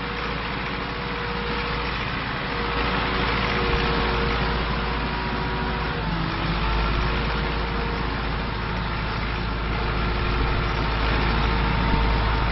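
UTB Universal 650 tractor's four-cylinder diesel engine running steadily, getting a little louder about three seconds in and again near the end.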